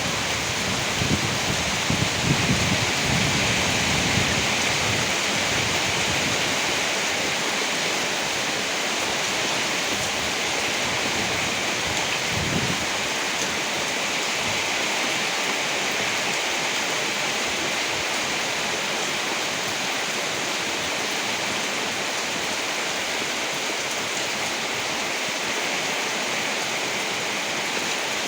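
Steady, dense rainfall hiss of a rainstorm, with low rumbles of thunder during the first few seconds and a shorter rumble about twelve seconds in.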